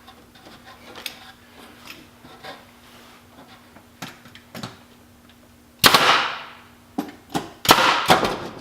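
Finish nailer firing into wood, three sharp shots in the last few seconds, the first and last trailing off in a short hiss. Before them, light knocks and clicks of wood pieces being positioned.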